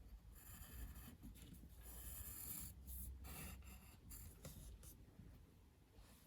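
Faint scratching of a drawing tool across a drawing surface, a run of short strokes with brief pauses, over a low background hum.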